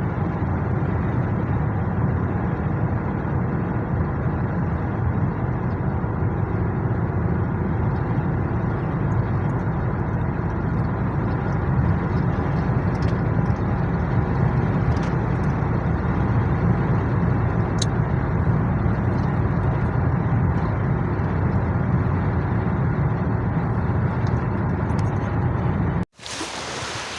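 Steady engine and tyre road noise heard from inside a car driving along a mountain road. It cuts off suddenly near the end, giving way to wind buffeting the microphone.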